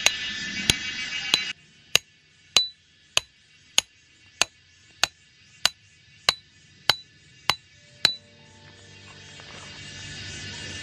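Hammering: about fourteen sharp metallic strikes at an even pace, a little under two a second, stopping about eight seconds in.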